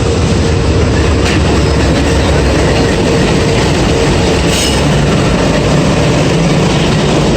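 Passenger train pulling into the platform: a loud, steady rumble of the locomotive and rolling coaches, with a steady whine running through it.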